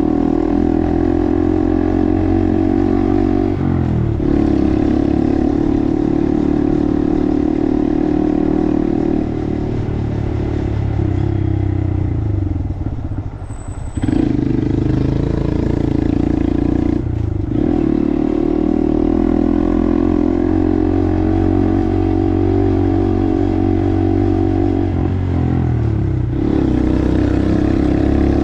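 Honda 125 cc single-cylinder minibike engine running under way, its pitch dropping and climbing again at a few gear changes. Near the middle it slows and quietens, then pulls away again.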